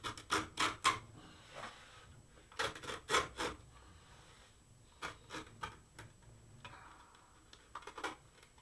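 Blade cutting through a subwoofer's fabric spider in short strokes: two quick runs of about four strokes, then several scattered single strokes.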